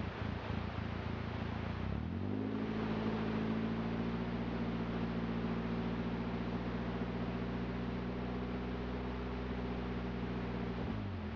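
BMW E30 318i four-cylinder engine rising from idle to a held higher speed about two seconds in, running steadily there, then dropping back toward idle near the end, while upper engine cleaner is being fed through its intake.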